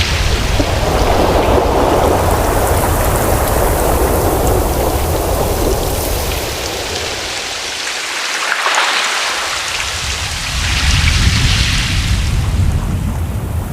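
Ocean surf: waves washing in and breaking as a continuous rushing noise that swells and ebbs, over a low rumble that briefly drops away about two-thirds of the way through as a hissing wash rises.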